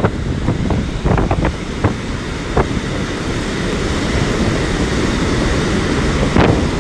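Strong storm wind buffeting the microphone over the noise of heavy surf, with a few short sharp clicks in the first three seconds and another near the end.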